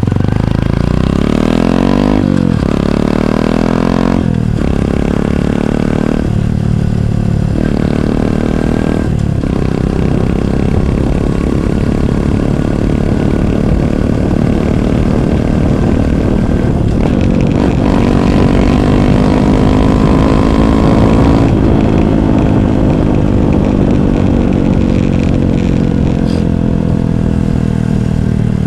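Honda CT125 Hunter Cub's 125 cc single-cylinder four-stroke, heard close up through a Minimoto SP Classic muffler with the baffle removed. The revs climb hard and drop with quick upshifts every two seconds or so in the first ten seconds, then it holds speed while slowly pulling higher, and about two-thirds of the way through the throttle closes and the revs fall away.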